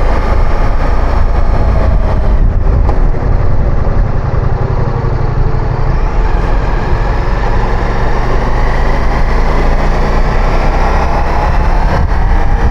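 Motorcycle riding sound through a helmet microphone: loud wind rumble over the mic, with the bike's engine running underneath. The engine hum comes through more clearly about halfway in.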